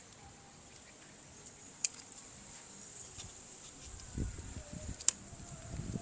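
Quiet handling noise: a sharp click about two seconds in and a louder one about five seconds in, with low knocks and bumps just before the second click, over a faint steady high-pitched whine.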